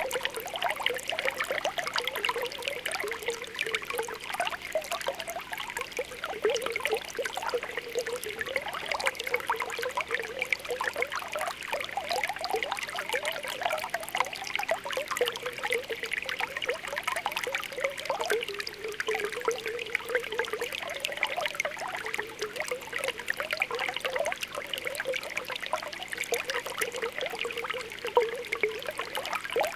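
Spring water welling up from the ground, bubbling and popping steadily with a continuous trickle.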